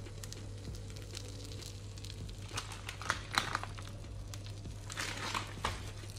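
Egg-in-bread toast frying in oil in a nonstick pan: a soft sizzle with scattered crackles and pops, a few sharper ones around the middle, over a low steady hum.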